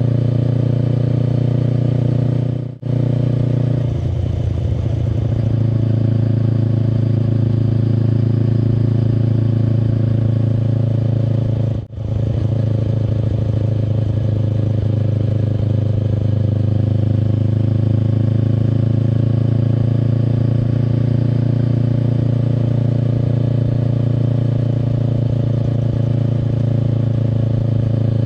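Kawasaki Eliminator SE's 398 cc parallel-twin engine running through a BEAMS aftermarket full exhaust while riding at a steady pace. The sound drops out briefly twice, about three seconds in and about twelve seconds in, then carries on steadily.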